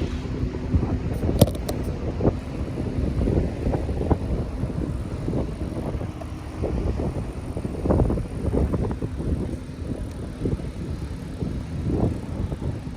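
Mountain bike being ridden: a continuous low rumble with irregular knocks and rattles, and wind buffeting the microphone. One sharp click comes about a second and a half in.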